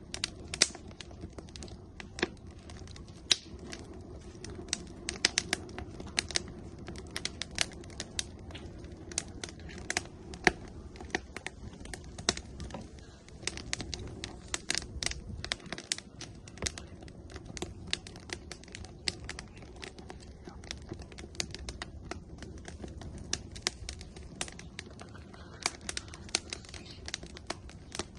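Firewood burning in an outdoor grill, crackling with many irregular sharp pops and snaps over a low steady rush of flame.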